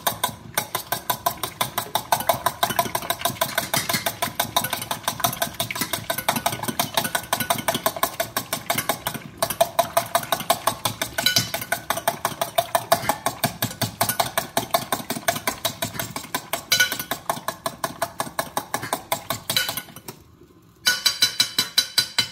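A fork beating eggs in a bowl: rapid, even clinks of the fork against the bowl, about five a second, with a short pause about twenty seconds in.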